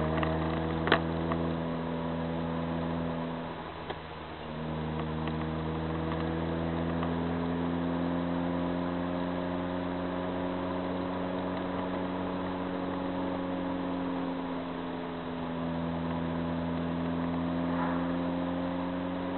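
Car engine running at steady moderate revs, heard from inside the cabin, easing off briefly about four seconds in, then pulling again with a slow rise in pitch. A single sharp click about a second in.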